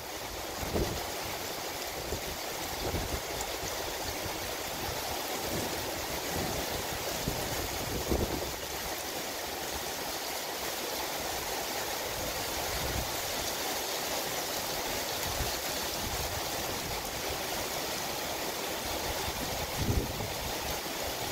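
Steady rain falling on pine trees and foliage, an even hiss. A few brief gusts of wind push on the microphone, about a second in, about eight seconds in and near the end.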